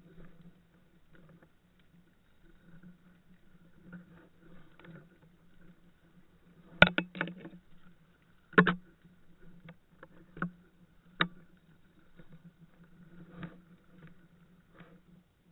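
A faint steady low hum with a scatter of sharp clicks, the loudest a close pair about seven seconds in and another about nine seconds in, then two single clicks.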